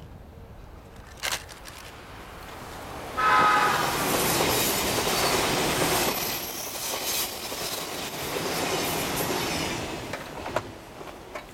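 Odakyu 20000 series RSE electric limited express passing at speed. A short horn blast sounds about three seconds in as it approaches. The noise of the train rises, holds as the cars go by, and fades away near the end.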